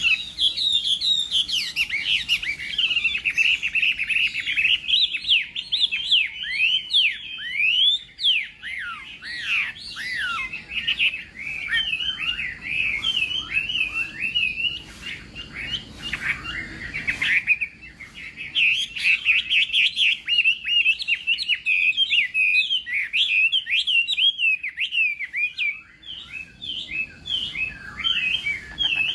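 Chinese hwamei (melodious laughingthrush) singing a long, rapid, varied song of whistled, sweeping phrases, with brief pauses about halfway and again near the end.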